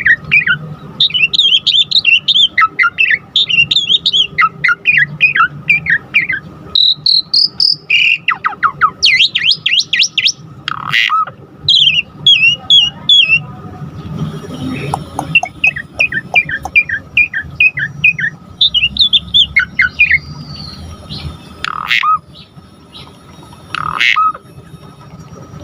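Javan pied starling (jalak suren) singing a fast, varied song of rapid chattering chirps and whistles. Several long downward-sliding whistles come later on, over a faint steady high tone.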